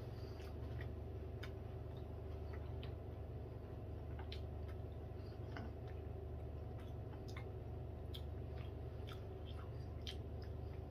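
A man chewing a mouthful of pastry bake with his mouth closed: faint, irregular small wet clicks over a steady low hum.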